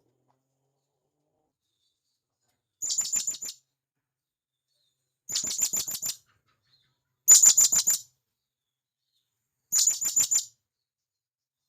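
Serindit (hanging parrot) calling in four short bursts a couple of seconds apart, each a quick run of about five sharp, high-pitched notes lasting under a second, with dead silence between. It is the loud, sharp call a serindit uses to call to others of its kind, as played to lure wild birds.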